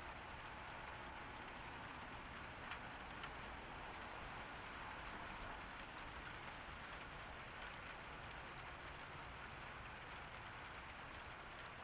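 Steady summer rain falling on a garden, an even hiss with scattered drops ticking on surfaces.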